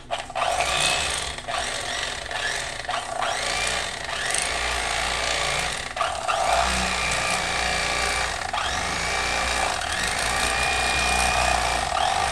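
Electric fillet knife running steadily as its reciprocating blades saw through a catfish fillet, with a few brief dips in the buzz.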